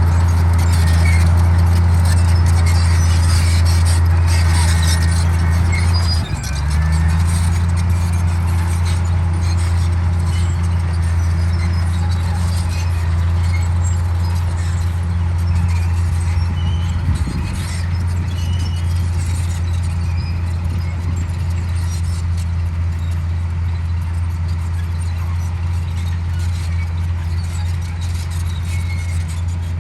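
Komatsu D58E bulldozer's diesel engine running steadily under load while the dozer cuts soil, with a brief dip in the engine note about six seconds in.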